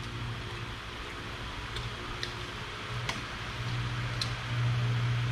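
A steady electric fan hum with a few faint clicks from eating crab and rice by hand.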